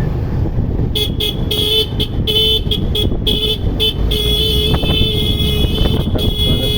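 Vehicle horn honking in a run of short, uneven toots, then sounding in longer held blasts, over the steady low rumble of riding through road traffic.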